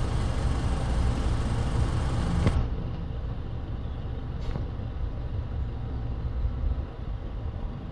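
Wind buffeting the microphone: an uneven low rumble that eases a little after about two and a half seconds.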